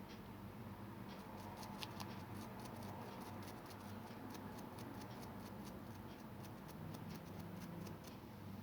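Rapid, light, irregular clicking of keys being typed on a computer keyboard, several clicks a second, stopping near the end. A steady low electrical hum runs underneath.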